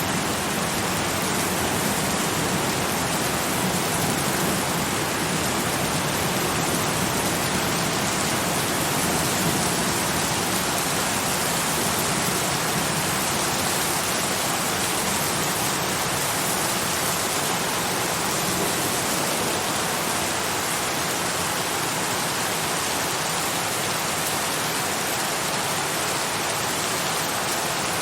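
Steady heavy rain falling on a surface, an even hiss with no thunder or other events.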